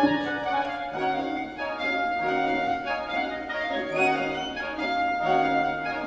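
Symphony orchestra playing, bowed strings holding long notes that shift in chords, with a sharp accent right at the start.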